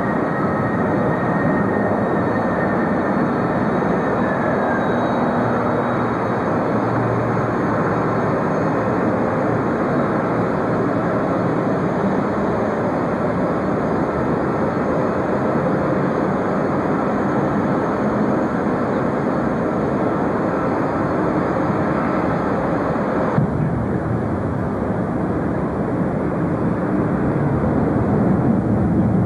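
Jet airliner engines running, a loud, steady rush of noise with a faint whine that slides down in pitch in the first few seconds. The sound changes abruptly about 23 seconds in.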